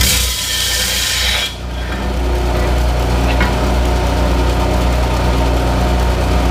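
Power saw running steadily with a constant motor hum as it cuts through 1/4-inch steel plate. The cutting noise is brightest in the first second and a half, then settles to a steady grind.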